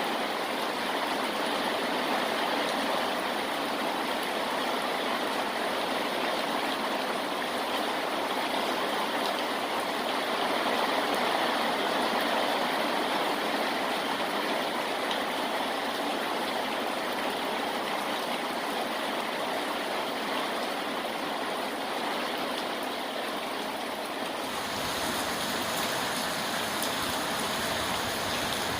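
Heavy rain falling steadily, an even rushing hiss of water. About 24 seconds in, a lower rumble joins it.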